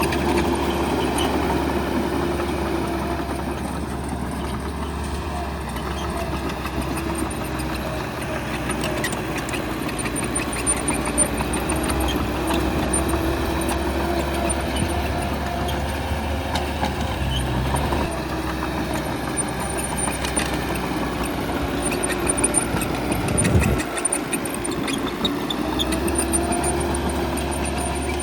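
Heavy earthmoving machine's diesel engine running steadily under work, with scattered clanks. About three-quarters of the way through, the engine note briefly dips and changes before settling again.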